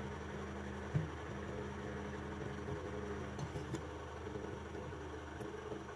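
Steady low electrical or fan hum in a small workshop, with a few light taps from handling parts, once about a second in and twice around three and a half seconds.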